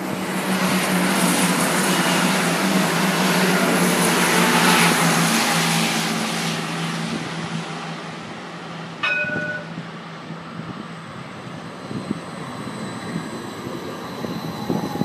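A passenger train passes on the adjacent railway line, loudest about four to five seconds in with a steady low engine drone, then fading. A single short ding comes about nine seconds in, and then an Edinburgh tram rumbles into the stop.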